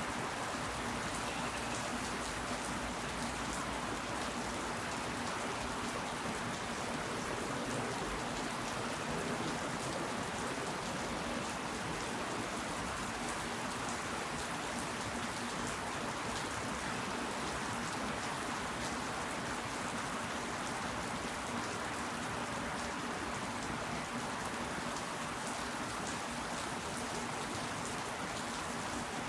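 Steady rain falling, a dense, even patter of drops that never lets up.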